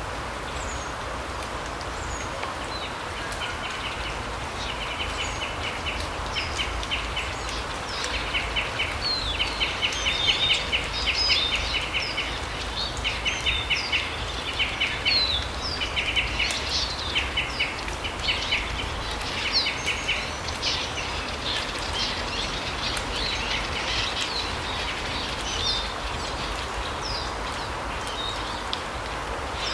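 Small forest birds calling: repeated short, rapid trills and scattered high chirps, busiest through the middle and thinning towards the end, over a steady background rush.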